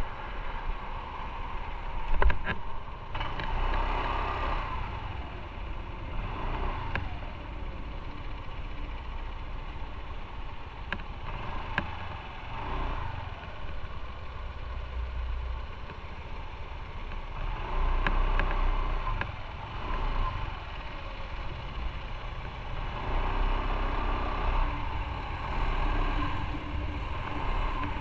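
Motorcycle running on the road with a low wind rumble, swelling a few times as it picks up or other traffic passes, and a sharp knock a little over two seconds in.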